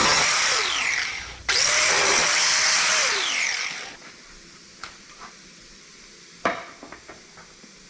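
Hand grinder working the sheet steel of a 1959 Chevrolet truck bed, cutting out for a moment about a second and a half in, then grinding again and winding down just before four seconds. A few light knocks follow, with one sharp knock about six and a half seconds in.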